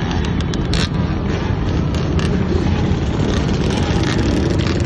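Engines of a large group of dirt bikes and ATVs running together, making a dense, steady engine noise with a few short sharp clicks.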